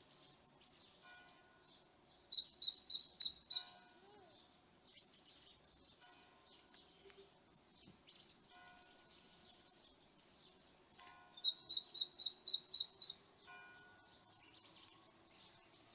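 Birds chirping and singing, with two runs of quick repeated high notes, about five or six a second, once a couple of seconds in and again about eleven seconds in.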